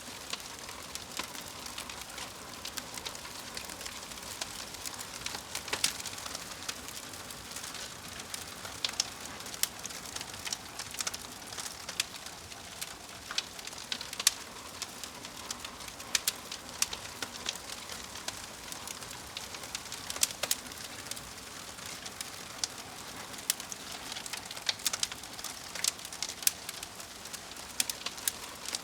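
Wood fire crackling: a steady hiss of burning with many irregular sharp pops and snaps.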